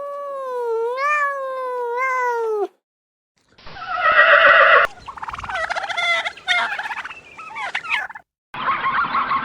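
A long, wavering, meow-like call from a cat, then after a short gap farmyard fowl calling in loud, rapid, rattling gobbles, with another burst near the end.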